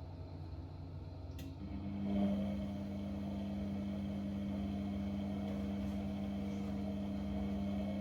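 A click, then an electric motor or pump switches on about a second and a half in and hums steadily.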